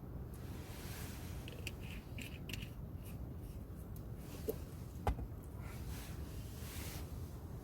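Small objects being handled: a few light clicks and scrapes, then two sharp knocks about half a second apart, over a steady low rumble.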